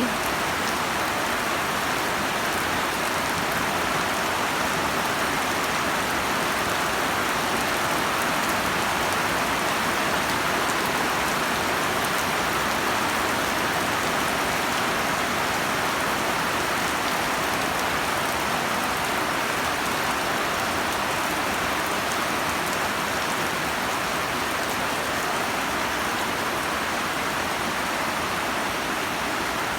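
Heavy storm rain falling steadily, a dense even hiss of rain that holds at the same level throughout.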